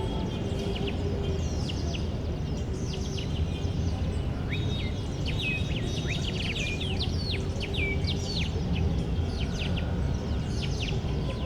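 Many small birds chirping in quick, sharp, mostly falling notes, sparse at first and growing busy from about halfway, over a steady low rumble of background noise.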